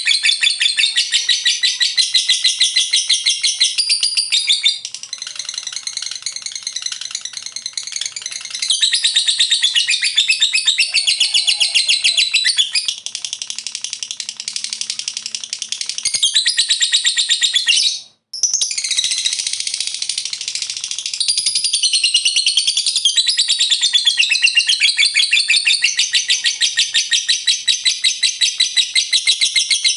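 Lovebird ngekek: a long, rapid, high-pitched chattering trill that runs on almost without pause. It eases off in two quieter stretches and stops briefly about 18 seconds in, then resumes.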